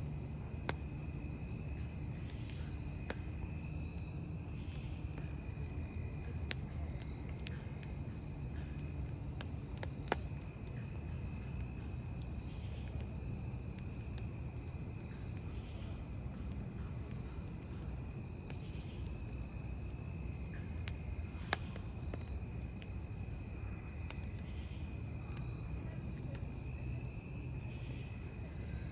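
Crickets trilling steadily over a wood campfire burning with a low rush, with a few sharp pops from the burning wood.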